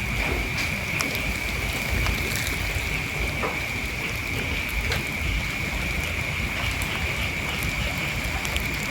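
A steady high-pitched drone with scattered sharp clicks and crackles, over a low rumble.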